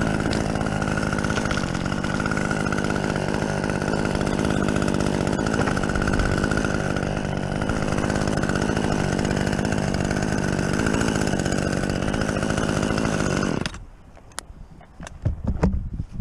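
Chainsaw held at steady high revs cutting into fir wood, stopping abruptly about 14 seconds in. A few sharp clicks and knocks follow.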